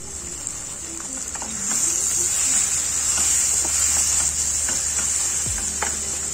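Beef curry sizzling and frying in a metal pan: a steady hiss that grows louder about two seconds in, with scattered clicks of a spatula scraping and stirring against the pan.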